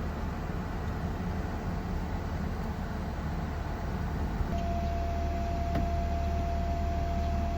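A steady low mechanical hum under an even hiss. The hum grows stronger about halfway through, and a thin steady whine joins it.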